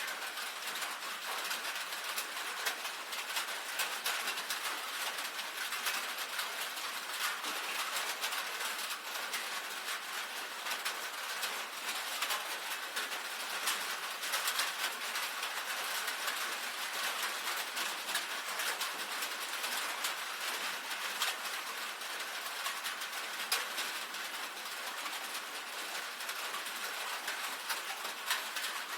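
Steady rain on a tin roof: a dense, even patter of many small drop taps.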